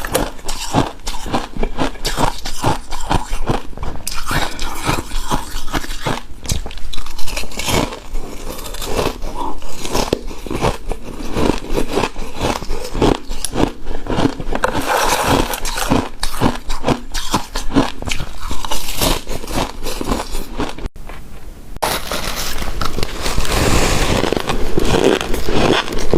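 Close-up eating sounds of shaved ice: many rapid icy crunches and chewing as it is bitten and chewed. There is a short break about three-quarters of the way through.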